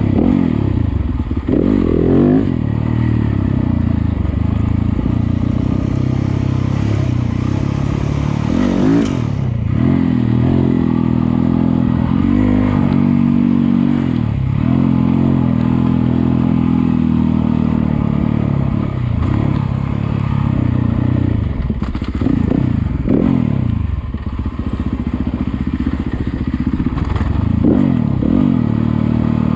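Yamaha YZ250FX four-stroke 250 cc dirt bike engine running under changing throttle, its pitch rising and falling repeatedly as it revs up and backs off, with occasional knocks and rattles from the bike over rough ground.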